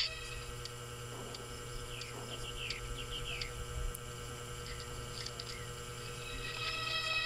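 Birds chirping a few short falling notes, grouped about two to three seconds in, over a steady hum from the old film soundtrack; held musical tones come back near the end.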